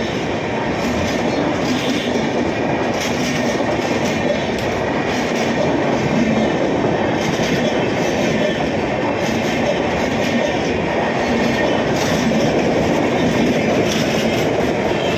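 Passenger coaches of an Indian express train passing close by at speed: a steady, loud rumble of steel wheels on the rails with a repeating clickety-clack as the wheels cross the rail joints.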